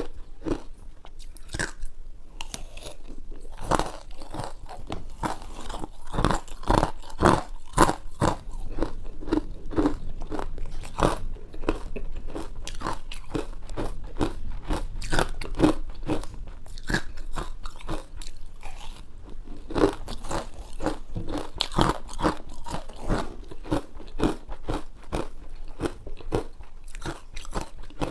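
Close-miked crunching and chewing of ice: a steady run of sharp, irregular crunches as pieces are bitten and ground between the teeth.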